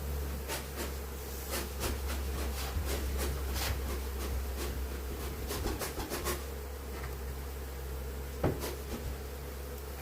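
Honeybees buzzing steadily while comb and wood are worked by hand, with a run of sharp clicks and scraping, then one louder knock near the end.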